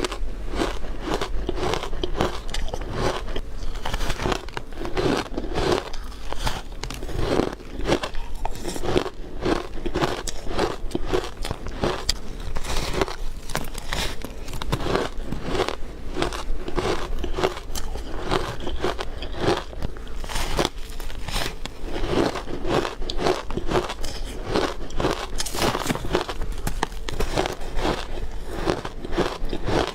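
Ice being bitten and chewed close to the microphone: a continuous run of sharp, rapid crunches and cracks.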